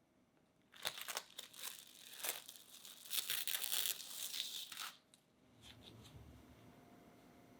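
Crinkling and tearing of a thin sheet, a run of crackly strokes lasting about four seconds, then stopping.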